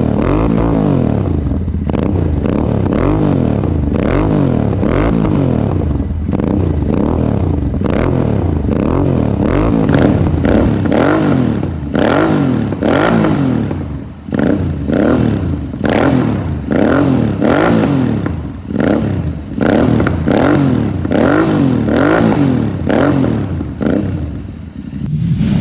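Royal Enfield Interceptor 650's parallel-twin engine revving through a slip-on exhaust with dual black knight mufflers. For about ten seconds the revs swing up and down. Then it gives a run of sharp throttle blips, roughly one a second, with the sound dropping between each.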